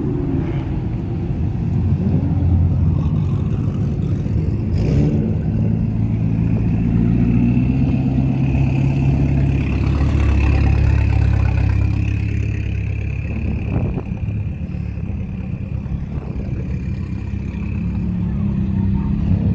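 Car engine running, rising a little and getting louder about midway before settling, with a steady high-pitched whine through the middle.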